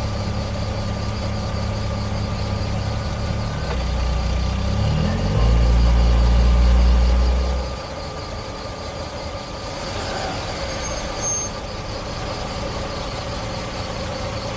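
Dubbed car-engine sound effect running steadily, revving up about five seconds in and running louder for a couple of seconds, then dropping away to a quieter steady background.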